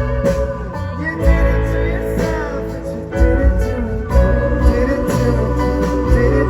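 Rock band playing live: guitars over bass and a steady drum beat.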